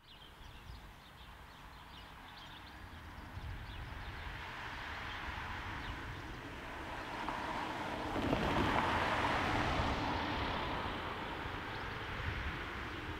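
Class 628 diesel multiple unit approaching on the line, its running noise growing steadily louder to a peak about eight seconds in, then easing off a little.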